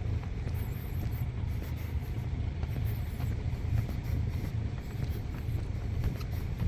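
Steady low rumble of a riverside city at night, with distant ship engines and traffic running without a break.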